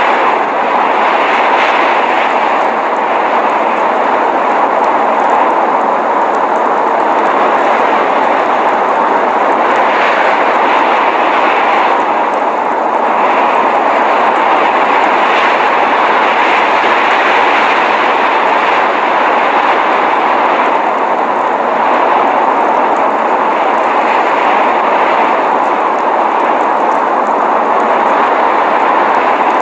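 Steady rushing blizzard noise: an even hiss centred in the mid range, with no breaks or separate events.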